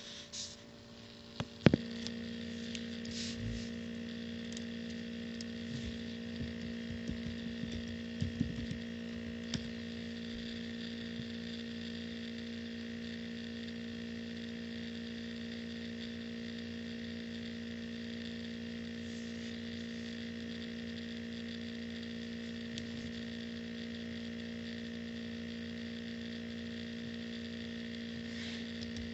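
Dell Inspiron 15 laptop running: after a sharp click about a second and a half in, a steady hum with several fixed whining tones starts up. Irregular ticks come over the next several seconds, and then the hum holds steady.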